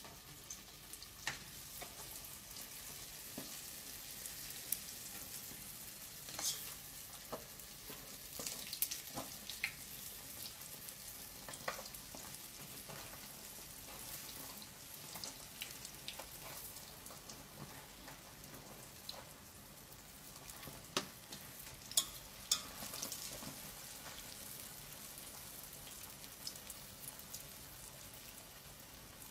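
Food frying in a metal pot: a steady sizzle, with irregular clicks and scrapes as a utensil stirs against the pot.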